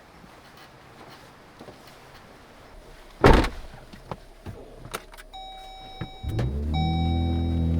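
A pickup truck's door shuts with a solid thud. A few seconds later a dashboard chime starts sounding in steady, repeated tones, then the engine starts and settles into a steady idle.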